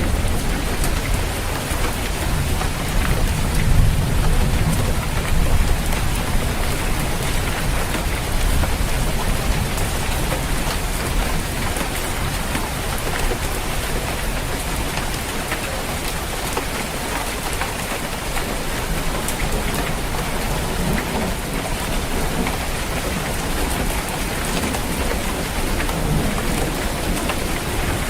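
Steady rain drumming on a roof, with many fine drop ticks. A low rolling thunder rumble is strongest in the first few seconds and builds again near the end.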